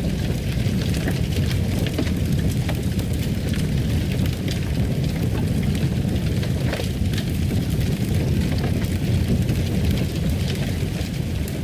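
Wood fire burning in a fireplace: a steady low rumble with scattered crackles and small pops throughout.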